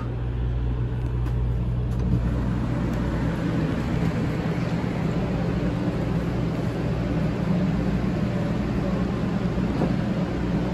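Steady low rumble and hum of a 500 series Shinkansen, the Hello Kitty Shinkansen, heard from inside the car's vestibule by the doors. About four seconds in the deepest rumble eases and a slightly higher hum comes up.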